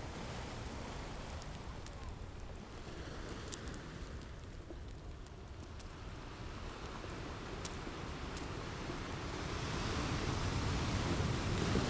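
Ocean surf washing in as a steady rushing noise, a wave surging louder near the end, with scattered sharp pops and crackles of a wood fire over it.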